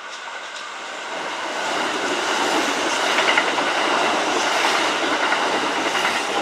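Kintetsu electric train running by on the track, its noise building over the first few seconds and then holding steady with rail clatter.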